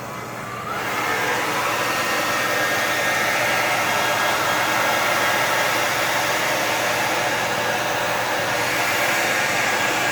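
Hair dryer switched on, its motor whining up in pitch over the first second, then running steadily and blowing hard.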